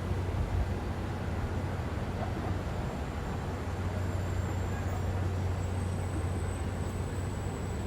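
City street traffic noise: a steady rumble of vehicles with a low, constant engine hum, and a faint high whine that comes in about halfway through.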